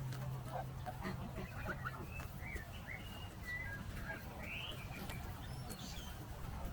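Birds chirping and giving short whistled calls, with a low, steady rumble underneath.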